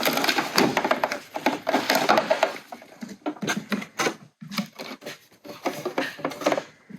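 Handling noises in a small room: rubbing and clattering, then scattered knocks and clicks, as a jump box is hooked up to the car's battery.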